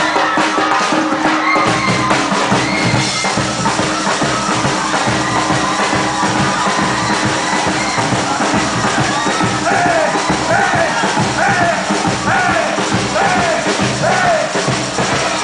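Batucada samba percussion band playing live: dense, loud drumming with deep bass drums in a steady rhythm. In the second half a short pitched call that rises and falls repeats over and over above the drums.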